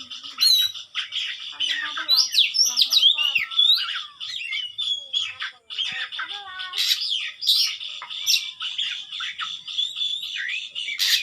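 Oriental magpie-robin (kacer) singing fast and continuously: a varied run of sliding whistles, chirps and harsh squawking notes.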